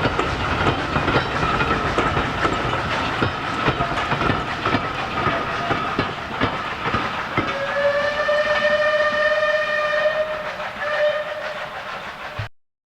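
Steam train running with wheels clicking over rail joints, then the locomotive's steam whistle blows one long blast about halfway through, followed by a short second blast. The sound cuts off abruptly just before the end.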